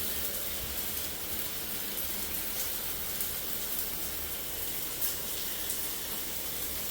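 Water running steadily from a tap and flowing down a drain that has just been cleared of a hair clog.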